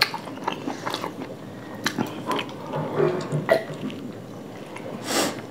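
Close-up eating sounds: chewing and lip smacks while fried rice and chilli chicken are eaten by hand, with many short clicks throughout and a short breathy burst about five seconds in.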